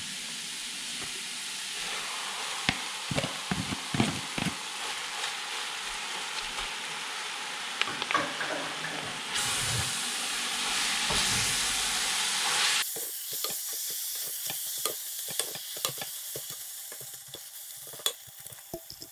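Grated zucchini and fried onions sizzling in a large stainless steel pot while a wooden spoon stirs them, scraping and knocking against the pot. The sizzle grows louder about nine seconds in and eases off a few seconds later.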